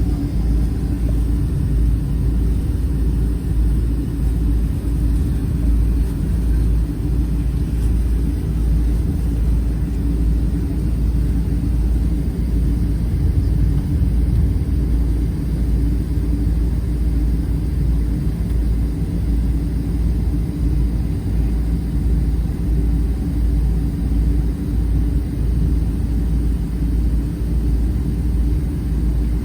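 Boeing 777-200 airliner heard from inside the cabin: a steady, even low rumble from its engines and airframe, with faint steady hum tones and no rise or change in pitch.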